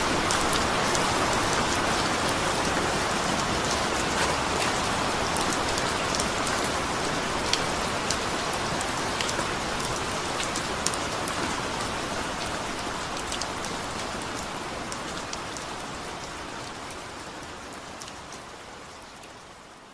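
Steady rain falling, a dense hiss with distinct drops pattering on a surface, gradually fading out toward the end.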